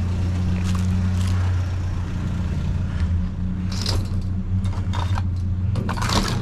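A vehicle engine idling with a steady low hum, with scattered small metallic clinks and rustling as junk is picked through for coins, the clearest clusters about four, five and six seconds in.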